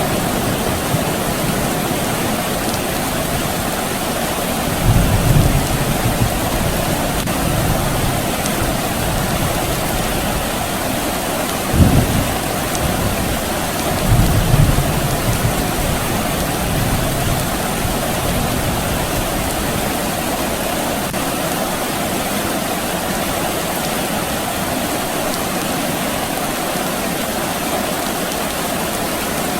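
Steady rain falling, with low rumbles of distant thunder: a swell about five seconds in, a short sharper crack-like rumble around twelve seconds, and another rolling rumble just after.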